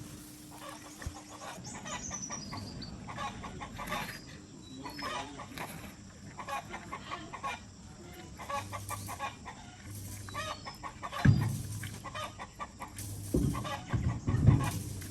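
Chickens clucking on and off, with a few heavy thumps about eleven seconds in and again near the end.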